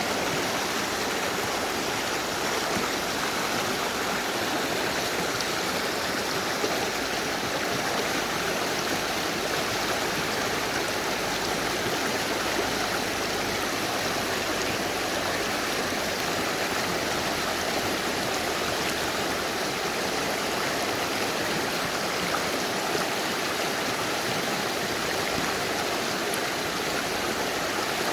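Mountain river rushing over rocks: a steady, even stream noise without change.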